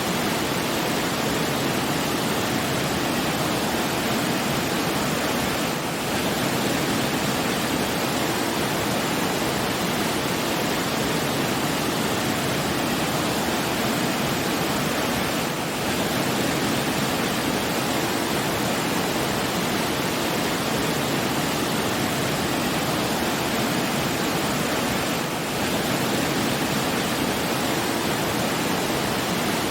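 Steady rushing water, like a waterfall or stream, an even unbroken wash of sound with a slight brief dip about every ten seconds.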